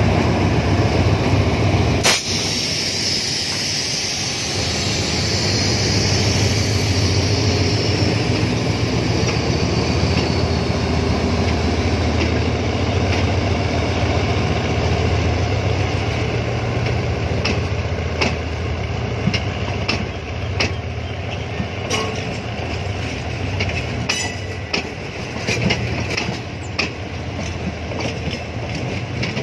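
GE diesel-electric locomotive passing close with a steady low engine drone, with one sharp click about two seconds in and a high hiss for several seconds after it. The drone fades as the locomotive moves off, and passenger coaches roll past with their wheels clicking over the rail joints.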